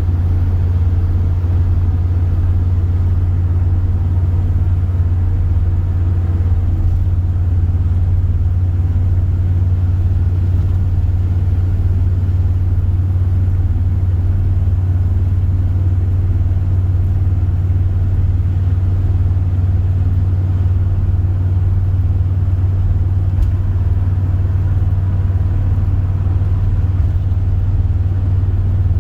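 Steady low rumble of a moving car heard from inside the cabin: engine and tyre noise on the road, with no change in pace.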